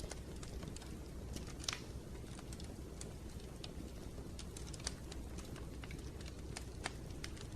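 Wood fire in a fireplace crackling: irregular sharp pops and clicks over a steady low rumble, with louder pops about two, five and seven seconds in.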